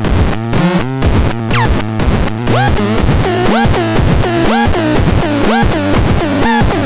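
Experimental rhythmic synthesizer patch playing a dense, pulsing electronic pattern, with swooping pitch glides that repeat about once a second over a throbbing bass.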